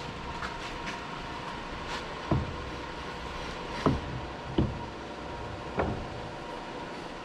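Steady machine-shop hum with a few light clicks, then four dull knocks of metal parts being handled on the lathe.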